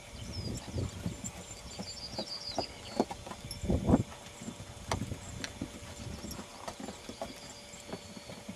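A stallion's hooves striking the ground in an irregular run of thuds, with one louder low thud just before four seconds in.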